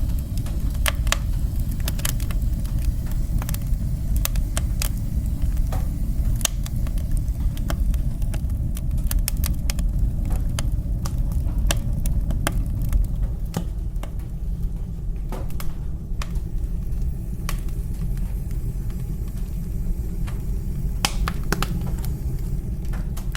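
Wood fire burning in a fireplace: irregular sharp crackles and pops over a steady low roar.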